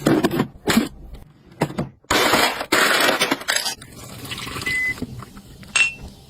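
Glass containers clinking and knocking as they are handled and set down, with a longer rustling stretch about two seconds in.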